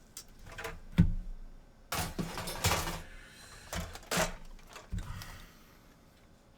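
Irregular clicks, taps and short scrapes of handling tools and parts on a workbench, with a denser burst of scraping about two seconds in, falling quiet near the end.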